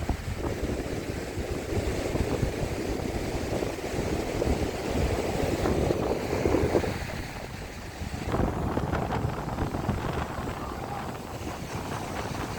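Strong wind buffeting the microphone over surf breaking on the beach, swelling and easing in gusts.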